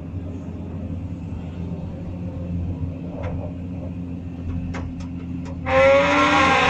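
Excavator engine running steadily, with a few light knocks, then about three-quarters of the way in a loud, slightly falling squeal starts: a wooden shovel handle jammed between the cab and the boom cylinder, rubbing as the boom moves.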